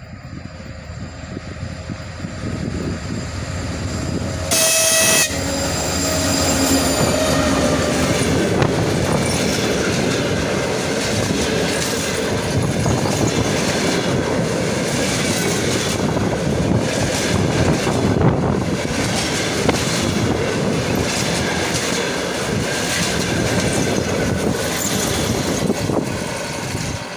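TEP70 diesel locomotive approaching with a passenger train, sounding a short horn blast about four seconds in. Then the carriages run past with wheels clattering rhythmically over the rail joints, and the sound drops off near the end.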